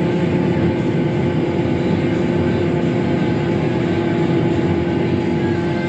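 Combine harvester running steadily while unloading grain into the grain cart: a constant machine drone with a steady hum.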